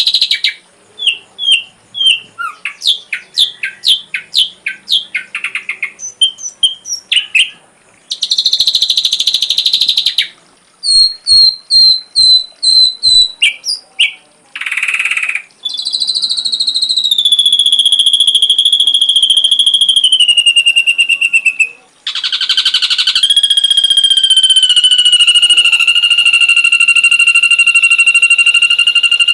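Ashy drongo song from a masteran tutoring recording, full of mimicked fill-in notes. It opens with a run of quick chirps and short harsh buzzes, then moves into two long, steady whistled tones, each stepping down a little in pitch, with a buzz between them.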